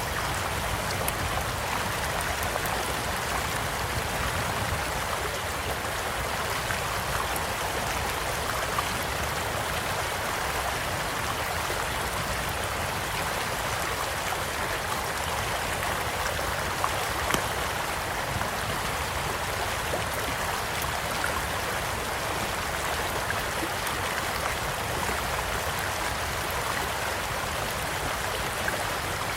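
A stream flowing steadily, with a campfire crackling over it and a few sharp pops, the sharpest a little past halfway.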